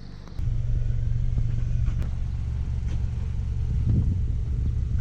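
2020 Subaru Outback on the move: a steady low rumble of road and engine noise that gets louder about half a second in.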